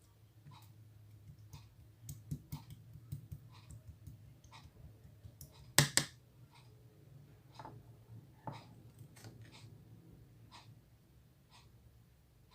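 Clear slime being squeezed and pressed by hand, making scattered small wet clicks and pops, with one loud snap about six seconds in.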